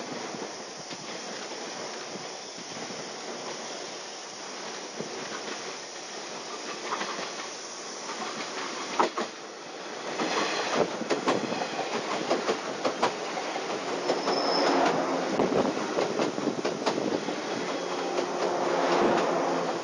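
A 189 series electric train approaching along the track and then passing close by, getting louder about ten seconds in, its wheels clacking over the rail joints as the carriages go past.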